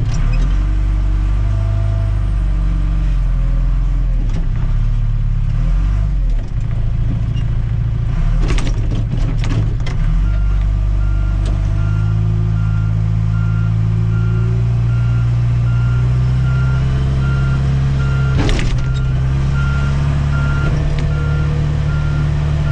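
Tractor-loader-backhoe's diesel engine working under load, its revs rising and falling, with a backup alarm beeping steadily through the second half and a few sharp knocks.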